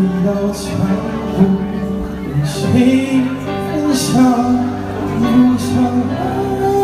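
Live band music: held instrument chords with a melody moving over them.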